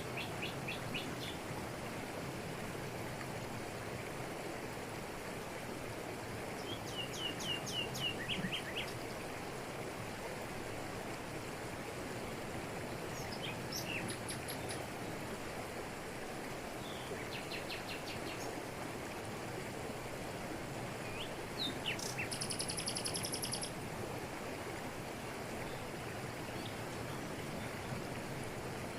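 Steady rushing of a jungle waterfall falling over rocks, with birds calling over it: several short series of quick chirps and, later on, a high buzzy trill.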